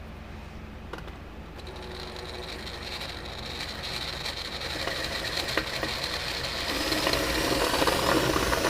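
Electric drill running steadily as it bores into a metal rivet, growing louder, most of all in the last couple of seconds; the rivet is spinning with the drill bit instead of its head cutting off.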